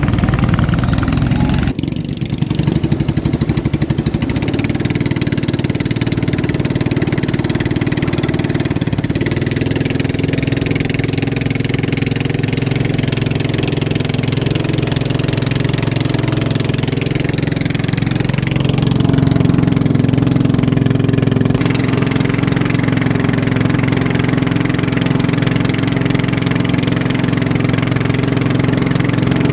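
Boat engine running steadily and loudly, with a sharp click about two seconds in and a slight swell in engine level around two-thirds of the way through.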